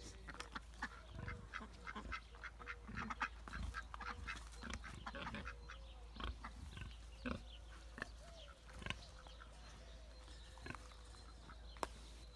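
Farmyard ducks and geese calling faintly, with many short, sharp chirps scattered throughout.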